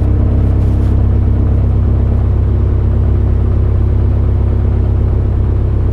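Cessna 152's four-cylinder Lycoming engine idling, a steady low drone heard inside the cockpit.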